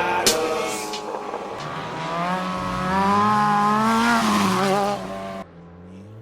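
Sport motorcycle engine revving up and down repeatedly under a steady hiss. About five and a half seconds in the sound drops abruptly to a quieter engine note.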